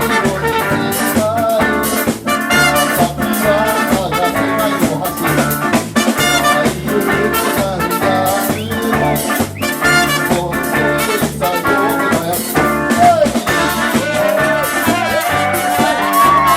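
A live band playing an instrumental passage with brass leading the melody over drum kit, in a ska or jazz style.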